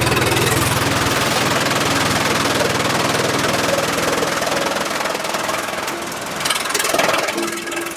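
Sawmill machinery running: a loud, dense engine-like rattle and hum that eases after about four seconds, with a couple of short sharper noises near the end.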